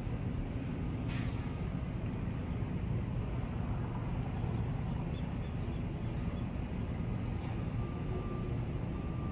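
Steady low rumble of the cruise ship Navigator of the Seas under way, even and unbroken, with a brief faint higher sound about a second in.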